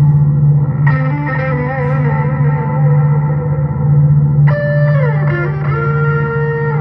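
Guitar through a Dreadbox Disorder fuzz pedal: a looped low fuzz drone with a fast, choppy flutter, like helicopter rotors. New fuzzy notes enter about a second in, and again past the middle with a downward pitch slide.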